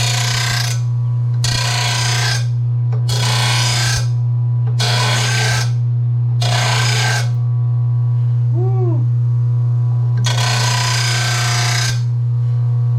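RBG 712 mower blade sharpener's motor humming steadily while a Toro TimeMaster residential mower blade is ground. The grinding comes as five short passes about every one and a half seconds, then one longer pass near the end.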